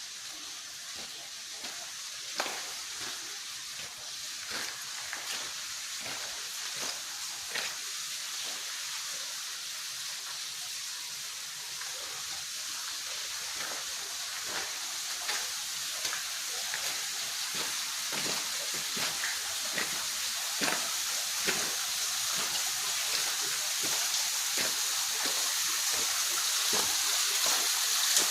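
Waterfall rushing as a steady hiss of falling water, growing gradually louder, with many irregular sharp taps and splashes throughout.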